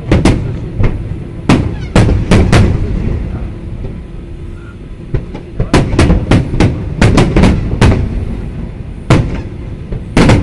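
Aerial firework shells bursting in a display: a run of sharp booms over a continuous low rumble. There is a lull a few seconds in, then a rapid cluster of bursts from about six seconds, and a few more single booms near the end.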